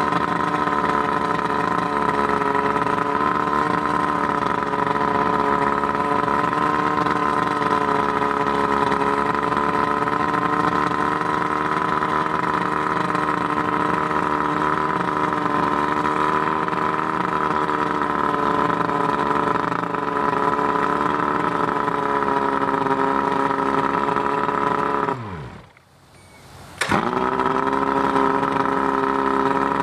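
Johnson 140 hp two-stroke V4 outboard motor running steadily, its carburetors freshly rebuilt and its power packs new. Near the end the engine speed sags and it stops, then it is running again under two seconds later and picks back up.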